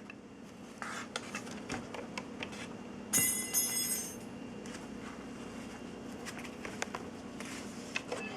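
A plastic toy flying saucer being handled, with scattered clicks and knocks over a faint steady hum. About three seconds in, a brief cluster of high electronic tones sounds for just under a second.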